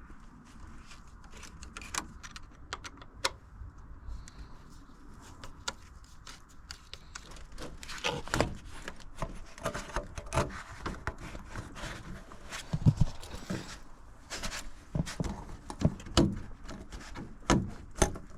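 Irregular clicks, taps and clunks of hand tools and parts being handled while a component, likely a hose, is taken off the engine of a Nissan 300ZX. The knocks are sparse at first and come thicker and louder from about halfway through.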